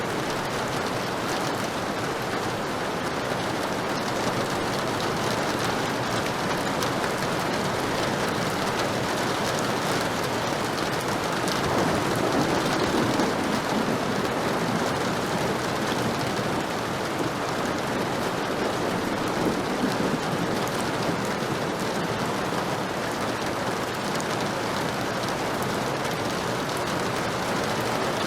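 Heavy rain pouring steadily, a dense even hiss of drops, with a brief low rumbling swell about twelve seconds in.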